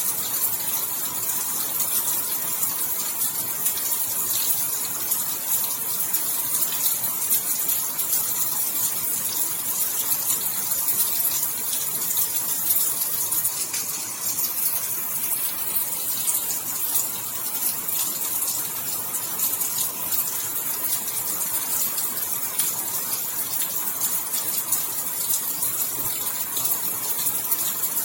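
Steady rainfall: an even, dense hiss of drops with fine patter, no thunder.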